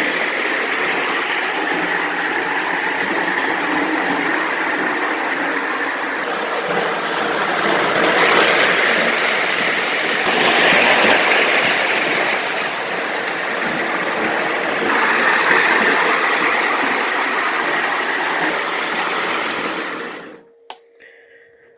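Marx 666 toy train locomotive running on its track with its cars: a steady electric motor whir and wheel clatter on the rails that rises and falls a little, then cuts off suddenly near the end. The freshly serviced engine is running really good.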